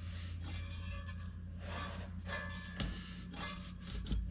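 Scraping and rubbing of hand work on engine parts, with a couple of light knocks, over a steady low hum.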